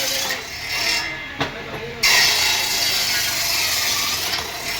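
A tool working wood, with a rasping hiss: a short burst in the first second, a knock at about a second and a half, then a longer stretch that starts abruptly at about two seconds.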